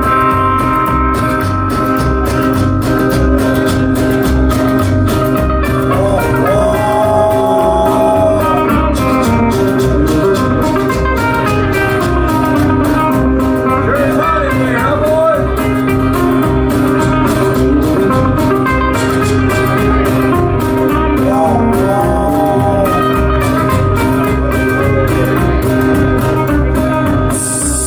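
Live country band playing an instrumental break: guitars over a steady beat, with a lead line that bends its notes now and then.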